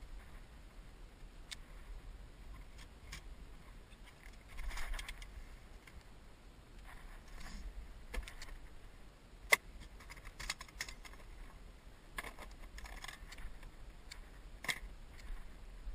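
Scattered light clinks, rattles and rustles of fishing gear being handled in a boat, with one sharp click about nine and a half seconds in.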